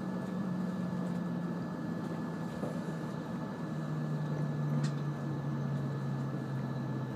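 E5 series Shinkansen heard from inside the car as it slows into a station: a steady running rumble with a low hum that drops in pitch as the train decelerates, and one short tick about five seconds in.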